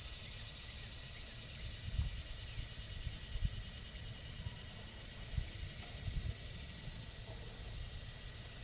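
Outdoor ambience: a steady high hiss with irregular low rumbling gusts on the microphone, strongest about two, three and a half, five and six seconds in.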